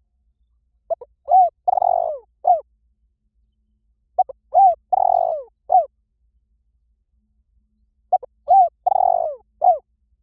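Spotted dove cooing, a lure call: three identical phrases about three and a half seconds apart, each a short run of coos with one longer note in the middle.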